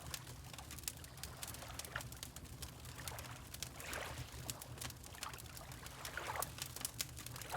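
Wood fire crackling with frequent small pops, over water lapping in a few soft swells, and a steady low rumble underneath.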